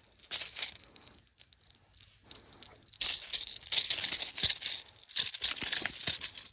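Rattle Trap lipless crankbait's internal rattles shaking in a short burst, then in a longer stretch of rapid, high-pitched rattling from about halfway through, as a hooked bass thrashes on the lure.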